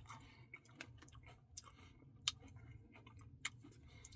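Faint mouth sounds of chewing a soft-serve Blizzard with pecan pieces: scattered soft clicks, with a sharper click a little past two seconds in and another about three and a half seconds in.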